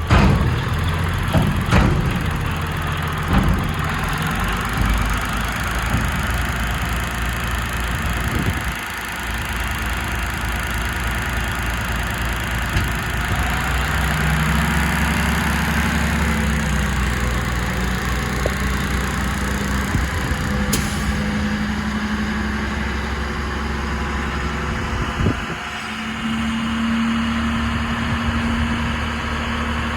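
Kenworth T800 dump truck's diesel engine running steadily, with a few clicks in the first few seconds. A higher steady note comes in about halfway and shifts in pitch twice.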